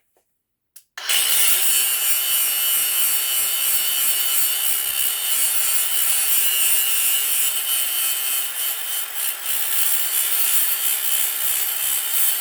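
A power tool starts about a second in and runs steadily on a brass and copper water-heater fitting.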